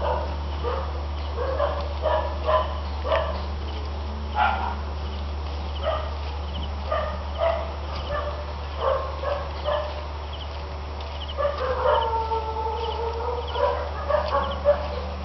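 Dog barking and yipping in short repeated calls, with one longer drawn-out whining call about twelve seconds in, over a steady low hum.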